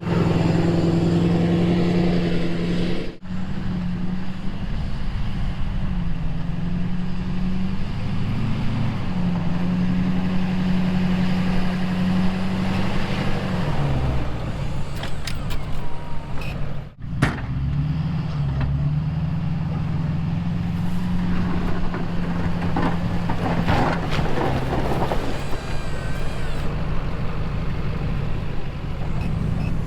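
Truck engine running steadily, its pitch stepping up and down as it works, broken by two brief drop-outs about 3 and 17 seconds in.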